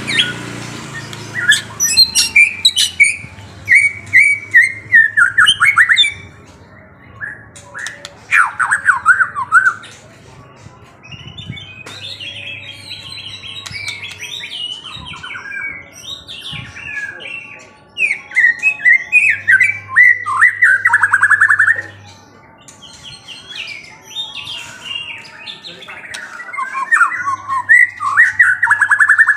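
A songbird singing in loud bursts of sharp chirps and fast, falling trills, phrase after phrase with short pauses between.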